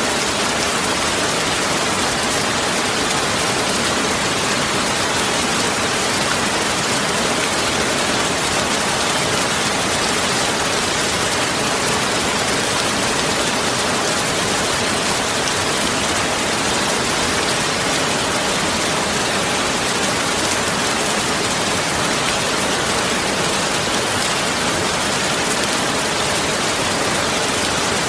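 Heavy rain falling in a steady, even hiss, with no thunder and no single drops standing out.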